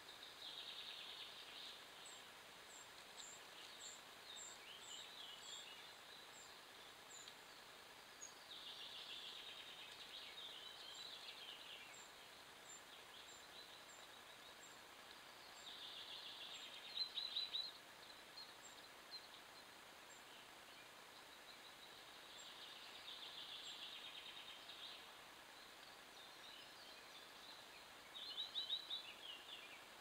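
Wild songbird singing faintly, a short burst of song about every six or seven seconds, the two loudest phrases about halfway through and near the end. A run of thin, high chirps from another bird sounds in the first several seconds.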